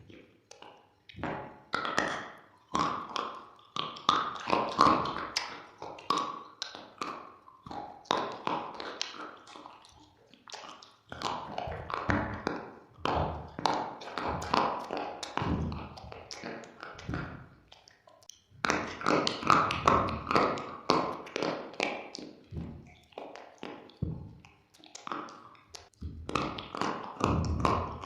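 Close-miked crunching: someone biting and chewing something hard and brittle, a fast run of sharp cracks that comes in bursts with short pauses between.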